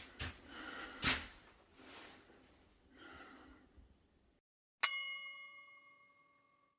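A few soft knocks and rustles, then after a moment of dead silence a single bell-like ding that rings out and fades over about two seconds.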